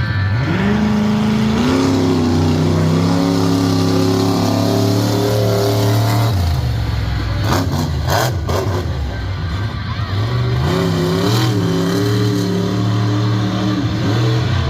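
A large show vehicle's engine revving up and holding high revs, dropping back about six seconds in. There are a few sharp knocks around eight seconds, then the engine revs up again near eleven seconds.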